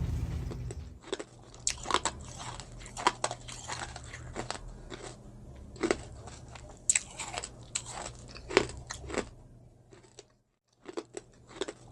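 Close-miked biting and chewing of crunchy food: a run of irregular sharp crunches, a short pause near the end, then more crunching.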